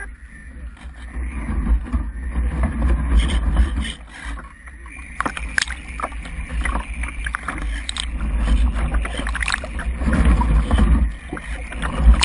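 Strong gusty wind buffeting the microphone: a low rumble that surges and drops, with scattered faint ticks and rustles over it.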